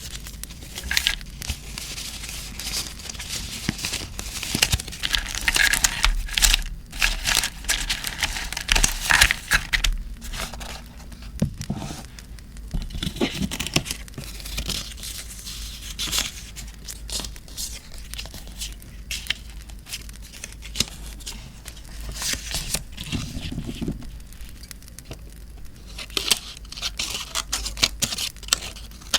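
Paper crinkling and tearing close up, in irregular bursts of sharp crackly rustles. The loudest stretches come in the first third and again near the end.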